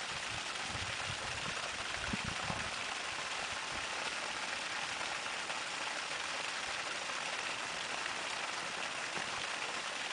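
Sump pump discharge: water rushing and splattering steadily out of inch-and-a-half PVC pipe.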